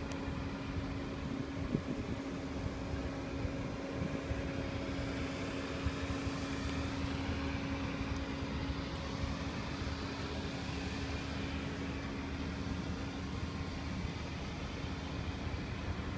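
Steady mechanical hum with a low rumble and a held tone. A rushing noise swells and fades between about five and twelve seconds in.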